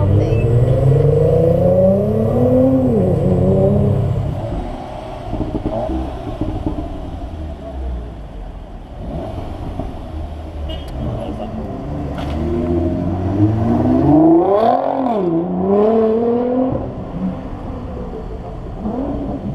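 Subaru Impreza's flat-four engine accelerating hard away, its pitch rising for about three seconds, then dropping at an upshift. About twelve seconds in, another car accelerates past the same way: a climb of about three seconds, a drop at the shift, then it pulls on.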